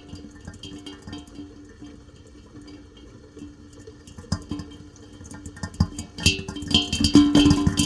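Plucked guitar music, soft through the middle and louder again from about six seconds in, with a faint sound of water beneath it.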